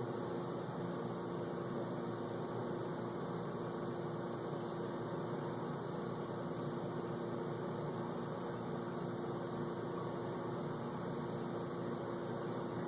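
Whirlpool dishwasher filling with water for the first rinse: a steady hum over an even hiss, unchanging throughout.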